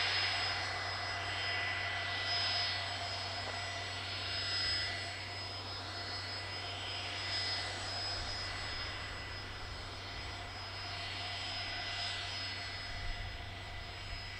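Jet aircraft engines running: a steady whine over a hiss that slowly swells and fades.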